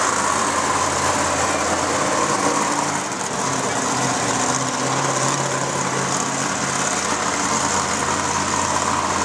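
Monster truck engine running steadily at low revs, with no hard revving.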